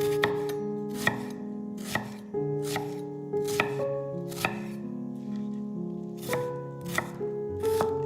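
Knife chopping food on a cutting board, slow single strokes about once a second, over background music with sustained notes.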